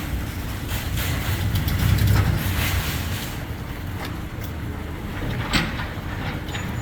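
Motor vehicle traffic with a low engine and road rumble that swells to its loudest about two seconds in, as a vehicle passes, then eases off; a sharp click about five and a half seconds in.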